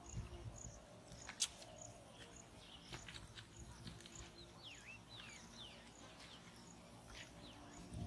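Faint birdsong: short swooping whistled calls through the middle, over a high chirp repeating about every half second. A single sharp click about one and a half seconds in.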